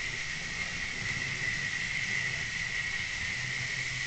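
Tri-ang model railway locomotive running along the track: a steady high electric-motor whine with a low rumble of wheels on the rails.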